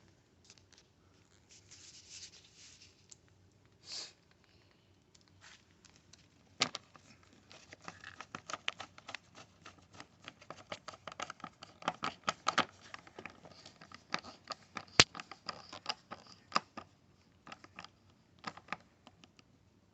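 Screws being driven by hand to fasten pit bike plastic bodywork: faint at first, then a run of small irregular clicks and scrapes of tool and hardware against plastic from about a third of the way in, with one sharper click about three-quarters through.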